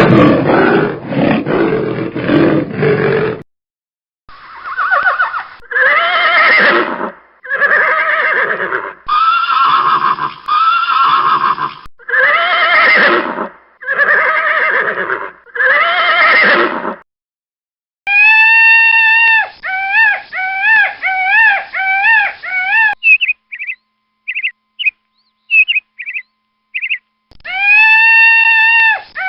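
A sequence of recorded animal calls from several different animals. It opens with a rough, noisy roar-like sound for the first few seconds. About seven separate pitched calls follow, each about a second long and rising then falling; then come a longer wavering pitched call, a run of short high chirps, and another pitched call near the end.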